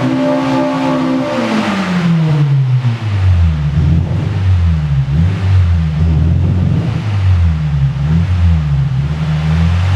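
Honda Integra Type R's 1.8-litre four-cylinder VTEC engine on a dyno, running high at first. About a second and a half in the throttle comes off and the note falls steeply in pitch, then settles into a lower, wavering running note.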